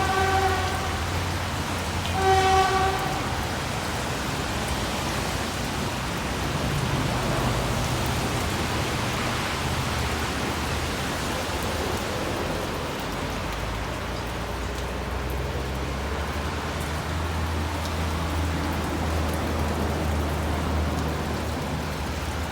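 Steady rain noise with a low rumble beneath it. A short pitched beep sounds at the very start and another about two and a half seconds in.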